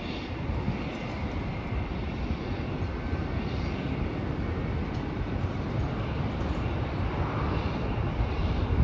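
Distant jet airliner engines, a steady rumble with a faint high whine.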